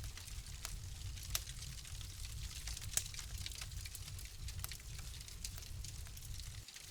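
Wood fire crackling in a fireplace: irregular sharp pops and snaps over a high hiss and a low steady rumble. The loudest pop comes about three seconds in.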